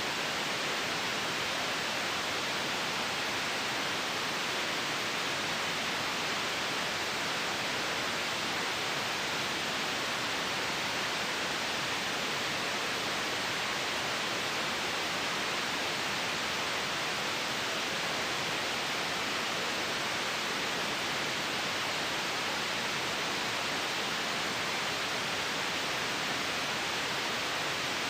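Steady, unchanging white noise for sleep: an even hiss, strongest in the upper range with little low end.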